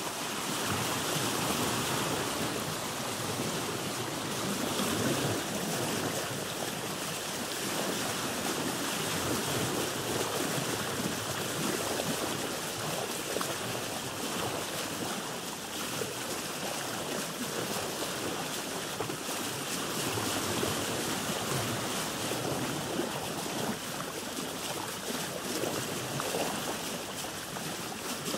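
Ocean water washing and splashing around a boat: a steady rushing wash that swells and eases gently.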